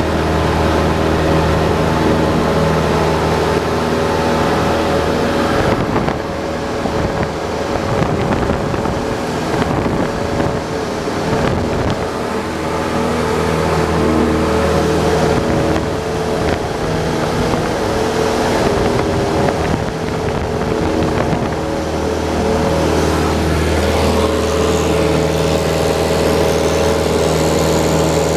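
A Cessna 172's piston engine and propeller drone steadily, as heard in flight. For much of the middle the drone is partly masked by a rushing wind noise, then comes back clearer near the end.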